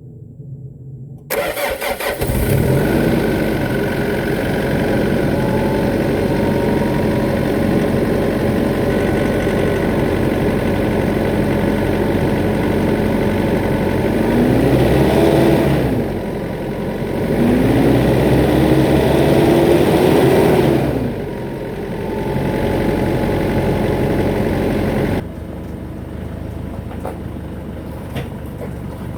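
Nissan Navara D40's YD25DDTi 2.5-litre four-cylinder turbodiesel starting up and running, revved twice about halfway through before settling back to a lower, steady idle. The truck's exhaust is leaking where a vibration damper has split in half, the source of a hiss the owner heard when accelerating.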